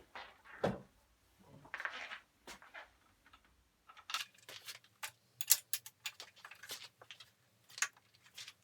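Irregular metallic clicks and clinks of hand tools and bolts being handled and done up on an outboard motor's lower leg, with one sharp click about five and a half seconds in the loudest.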